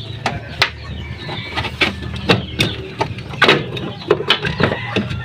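Scattered sharp clicks and knocks, some in quick runs, of hand tools and metal parts being handled, over a steady low hum.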